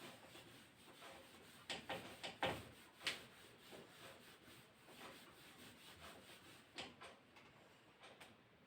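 Quiet handling noise: a quick run of short knocks and rubs about two to three seconds in, and one more knock near the end.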